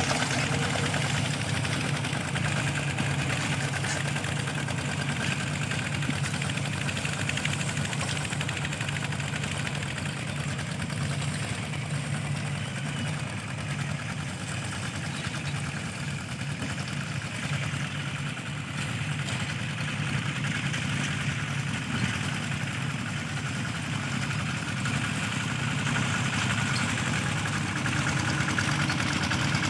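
Mini tractor's engine running steadily, a little quieter for a few seconds in the middle.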